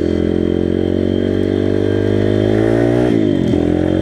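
Pit bike's small single-cylinder engine running under way, its revs climbing steadily, then falling sharply about three seconds in and starting to rise again.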